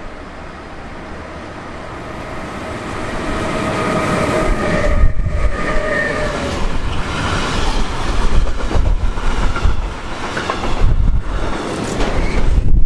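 A train passing close by: it grows louder over the first five seconds with a steady whine of a few tones, then becomes a loud rumble with repeated clacks of the wheels over the rail joints.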